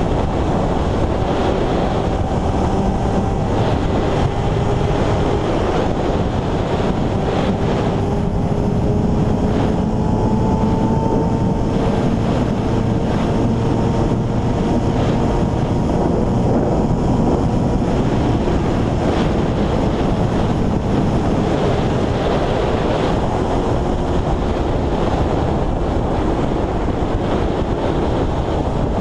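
Motorcycle engine running at a fairly steady speed, its note drifting slowly up and down, under heavy wind noise on the microphone.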